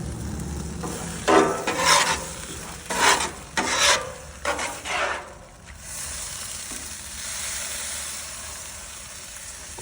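Food frying on a Blackstone flat-top griddle. Several scraping strokes of a spatula come in the first half, then a steady sizzle.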